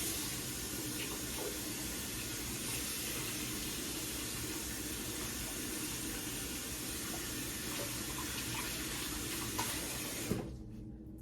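Bathroom sink faucet running steadily into the basin, with a few small knocks of things handled under it; the tap is shut off about ten seconds in.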